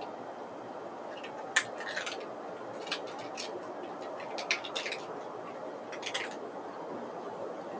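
Irregular short, sharp clicks and ticks, some in quick pairs or clusters, over a steady background hiss.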